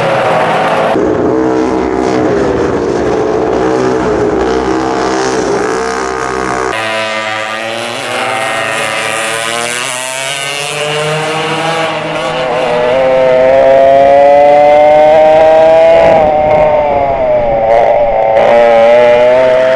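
Vintage dual rear-engine racing karts at full throttle, their engine notes rising and falling, with several abrupt changes as the clips cut. About two-thirds of the way in, one engine climbs steadily in pitch under acceleration, and this is the loudest part.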